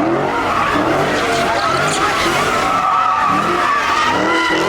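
Car tyres squealing in one long, steady screech as a car slides, with its engine running hard underneath.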